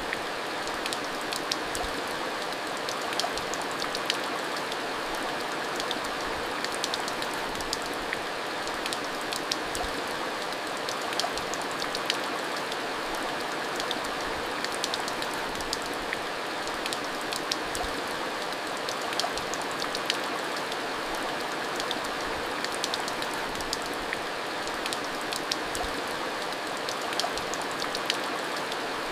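Steady heavy rain falling, with frequent sharp drop ticks hitting a hard surface over an even hiss.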